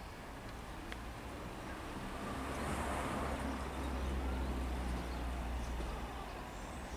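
Sprinter diesel multiple unit approaching out of a tunnel: a low engine and wheel rumble that grows louder through the middle, with a rushing noise peaking about three seconds in.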